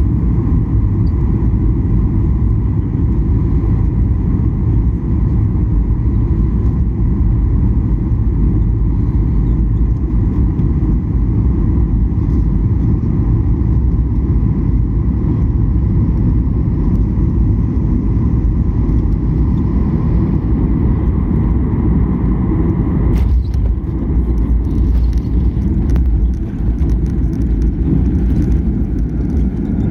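Cabin noise of a Boeing 737-800 rolling out after touchdown: a heavy, steady rumble of the wheels on the runway and the engines, with a steady engine whine that drops away about 23 seconds in.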